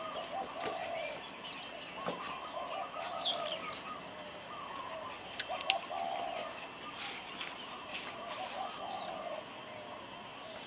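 A bird's short, low calls, repeating about once a second, with a few faint sharp clicks in between.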